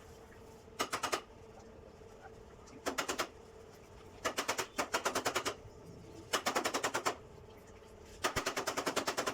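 Five short bursts of rapid mechanical tapping, about ten strikes a second, with a faint steady hum underneath.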